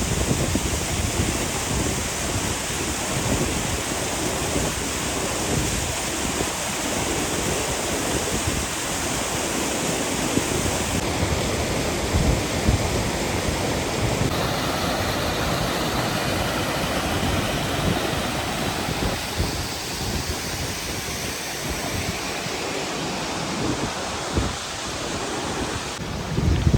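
Steady rushing noise of river water, with wind buffeting the microphone in low gusts. The sound shifts abruptly a couple of times, about 11 and 14 seconds in.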